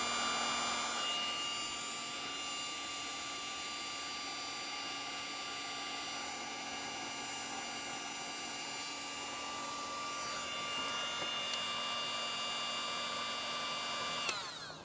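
Cordless, battery-powered heat gun running steadily with a fan whine, blowing hot air to shrink heat-shrink wire connectors. Near the end it is switched off and the whine winds down.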